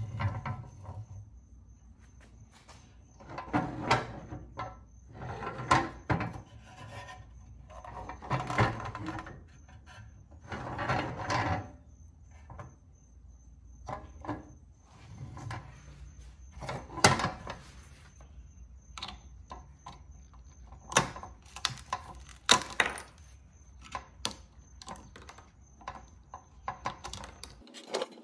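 Rusty pressed-steel toy truck handled on a tabletop: irregular knocks, rubs and clatters of metal on the table, with sharper single clicks in the second half.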